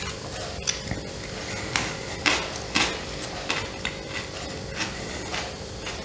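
A man chewing a mouthful of sandwich close to the microphone: a bite at the start, then wet mouth clicks and smacks, two louder ones about two and a half seconds in.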